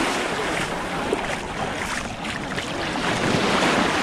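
Sea waves washing onto a pebble shore, the noise swelling toward the end, with wind on the microphone.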